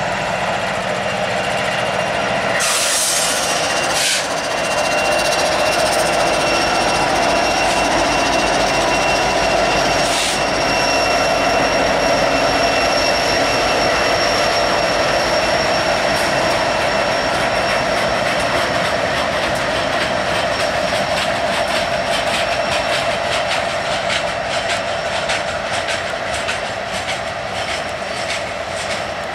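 Freight train passing close by behind several diesel-electric locomotives: a steady engine drone and rolling steel wheels, with a thin, steady high-pitched wheel squeal. A rapid clicking of wheels over the rail joints builds in the second half.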